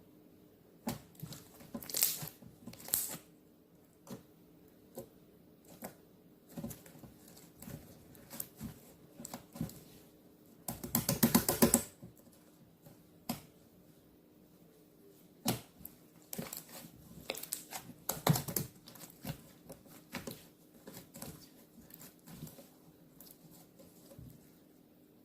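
Handmade glitter slime being played with by hand, giving scattered sticky clicks and small pops as air pockets burst. A dense run of rapid crackling pops comes about eleven seconds in, and another cluster around eighteen seconds.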